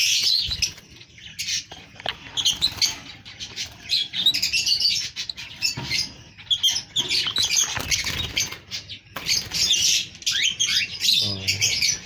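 A flock of budgerigars chirping and chattering without pause: rapid, overlapping high-pitched calls.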